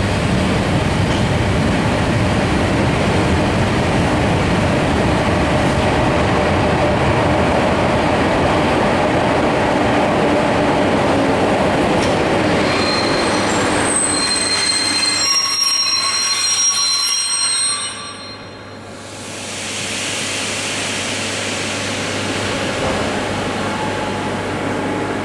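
Passenger train heard from inside the carriage, its wheels rumbling on the track through an underground station, then thin high-pitched squeals as it brakes, ending in a stop about eighteen seconds in. After the stop, a steady hiss with a low hum carries on.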